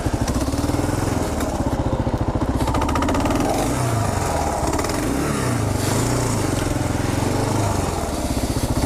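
Kawasaki KLR 650's single-cylinder engine running under way, its pitch rising and falling with the throttle.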